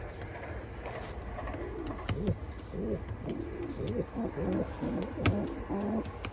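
Several racing pigeons cooing in the loft, their low rolling coos overlapping one another. A few sharp clicks fall among them, the loudest about five seconds in.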